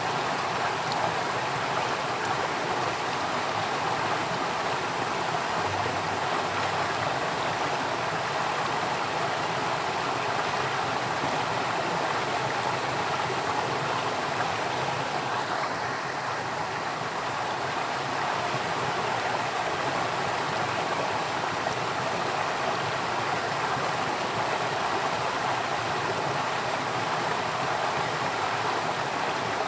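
Flowing water rushing steadily, an even unbroken wash of sound.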